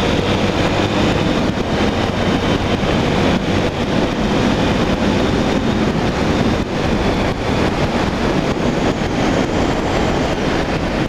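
Wind rushing over the microphone on a moving Honda XR 250 Tornado motorcycle, with its single-cylinder four-stroke engine running steadily underneath.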